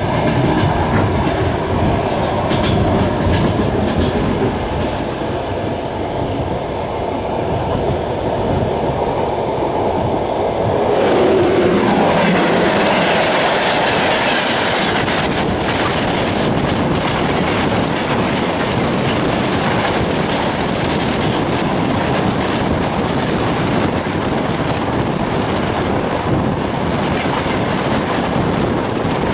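Passenger train running at speed, heard from inside a coach, its wheels clattering steadily over the rail joints. From about eleven seconds in, a freight train passing close on the next track adds a brighter, hissing rush of wagon noise.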